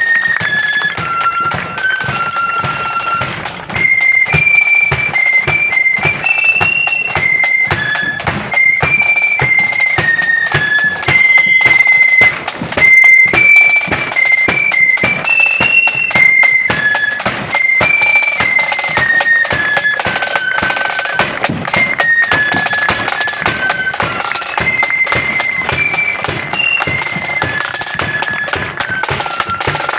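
Marching flute band playing a tune: flutes carry a high melody over steady drumbeats.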